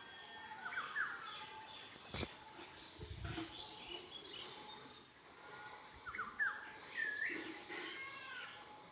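Birds chirping and calling in short, scattered notes, with one longer rising-and-falling call near the end, over a steady outdoor hiss. A single sharp knock about two seconds in.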